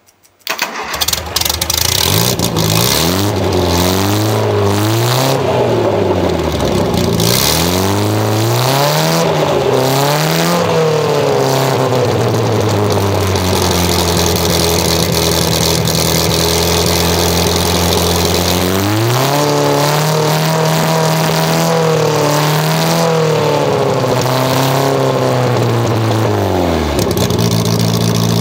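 Austin Mini 1000's 998 cc A-series four-cylinder engine starting about half a second in, then revved up and down several times. It holds a steady raised speed for a while, is revved again, and settles back to idle near the end.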